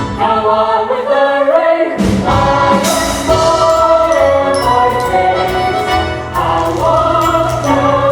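A chorus of many voices singing together over instrumental accompaniment, as in a company number of a stage musical.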